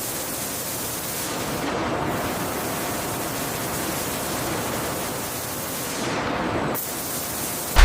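A steady, loud hiss of rushing noise that starts abruptly and ends with a sudden low thud.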